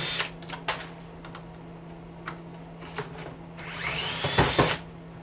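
Power drill driving a socket on a nut at high speed, spinning up with a rising whine that stops just after the start and again about four seconds in, with small clicks of handling between. A steady low hum runs underneath.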